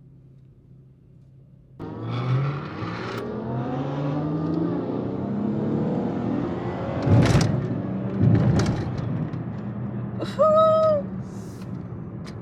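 Car engines running and revving as cars pass, their pitch rising; about two seconds in the sound jumps up suddenly from a low hum. Two sharp loud cracks come about a second apart in the middle, and a short high tone sounds near the end.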